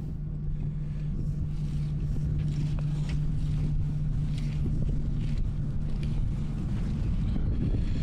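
Diesel engine of a Kubota skid steer running steadily at idle, a low even hum.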